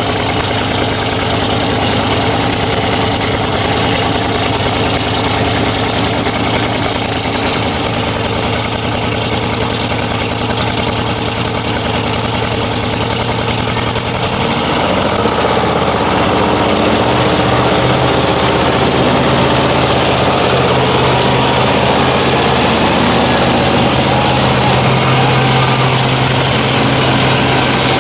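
Big truck engines running steadily, with the low engine note shifting to a different steady pitch about halfway through.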